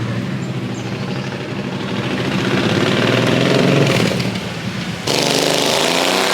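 A motor running with a steady low hum and loud, rough noise over it. The sound changes abruptly about five seconds in.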